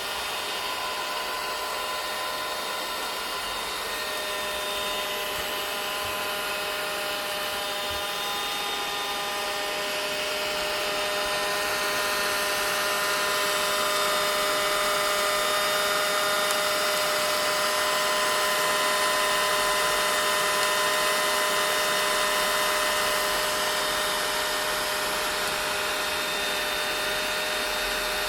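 Vacuum cleaner running steadily: an even motor whine with a few held tones over a rushing hiss of air, growing a little louder in the middle.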